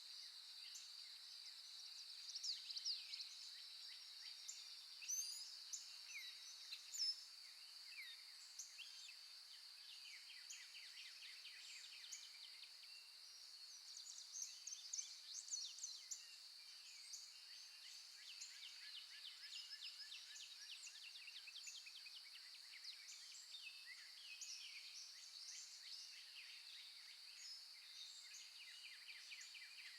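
Faint birdsong from several birds: many short chirps and quick trills, more of them about a third and halfway through, over a steady high-pitched hiss.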